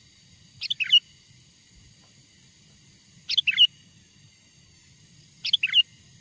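Sooty-headed bulbul (kutilang) calling: three short phrases of a few quick falling notes, about two and a half seconds apart.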